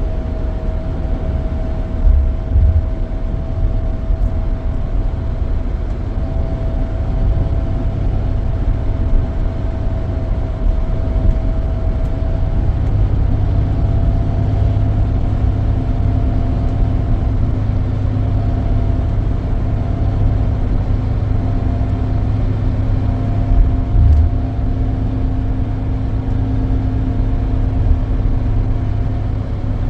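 Scania K440EB coach under way, heard from on board: a steady low engine and road rumble with a thin whine on top, and a second, lower tone joining about halfway through. Two short low thumps come through, one about two seconds in and one later on.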